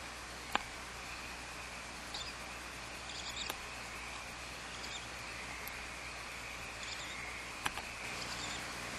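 Barn owls in a nest box giving a long, faint hissing call, with a few sharp clicks, over a steady hiss from the nest-box microphone.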